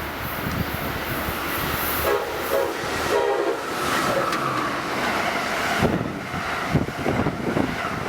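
Passenger train approaching and sounding its horn, a short chord about two to three seconds in, over the rising rumble of the train.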